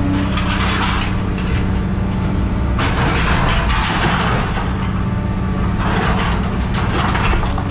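Scrap metal clanking and scraping in three stretches, over a machine's engine running steadily.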